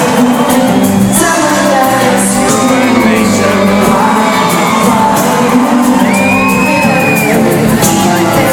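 Loud live pop concert: a male lead singer with a full band, the crowd whooping and shouting along.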